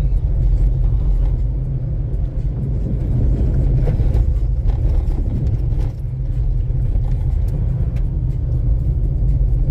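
A car driving at steady speed, heard from inside the cabin: a continuous low rumble of engine and tyres on the road.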